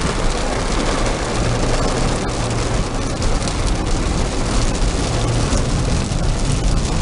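Steady road and engine noise of a car driving in the rain, heard from inside the cabin, with rain hissing and pattering on the car.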